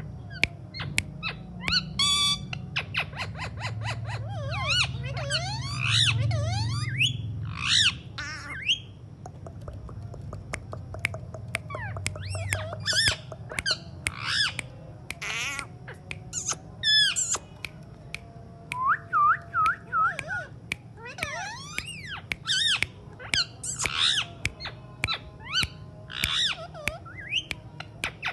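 Alexandrine parrot calling: a steady run of short squawks, chirps and whistles, many gliding up or down in pitch, over a low rumble in the first half.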